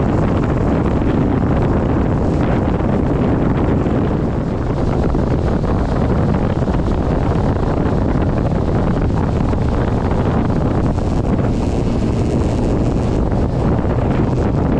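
Steady, loud wind rush buffeting the onboard GoPro's microphone as the E-flite Slow Ultra Stick RC plane flies through strong wind.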